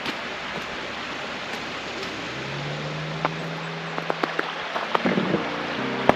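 Steady rush of flowing stream water, with scattered sharp clicks in the second half. Music fades in underneath during the last few seconds.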